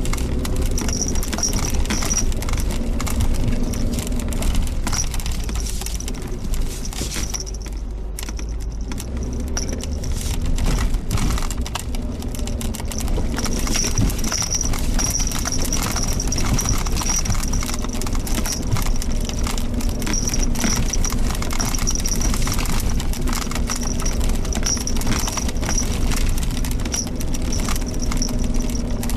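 Suzuki Jimny Sierra driving along a mountain forest road: steady engine and road hum with constant light rattling and clicking from the vehicle over the rough surface, briefly easing off about eight seconds in.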